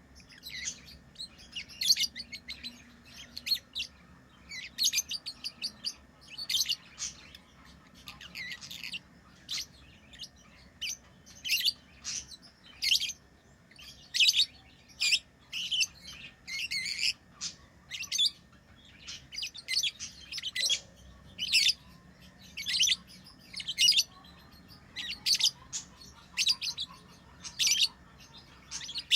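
Lovebirds chirping: short, high-pitched calls repeated irregularly, about one or two a second.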